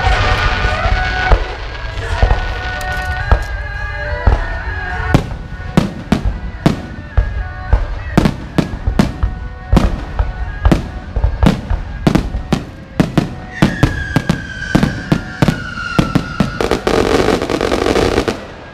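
Aerial fireworks shells bursting in rapid succession, a long run of sharp bangs with music playing underneath. Near the end the bangs thicken into a dense burst of crackling before stopping.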